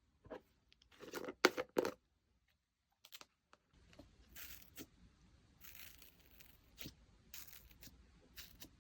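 Slime being squeezed and stretched by hand, giving a quick run of sticky crackles and pops, then after a short break softer swishing squishes about once a second.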